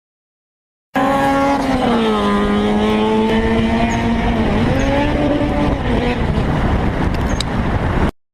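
A car's loud pitched whine over a steady rushing road noise. The whine slides down in pitch over the first second or so, then dips and rises again about four seconds in. The sound starts abruptly and cuts off suddenly near the end.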